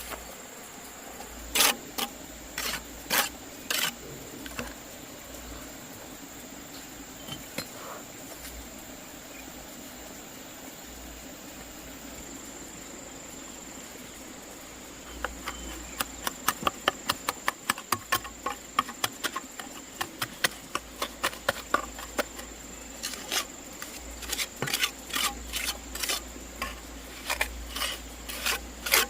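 Sharp knocks or strikes: a few about two to four seconds in, then a fast run of several a second from about halfway to the end. Steady high-pitched insect trilling runs underneath.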